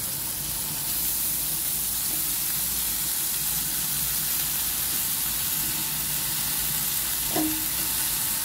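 Sliced snake gourd frying in hot vegetable oil in a kadai with onion and garlic, a steady even sizzle.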